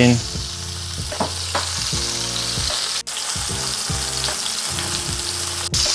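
Breaded fish pieces frying in very hot oil in a pan, a steady crackling sizzle as they crisp up.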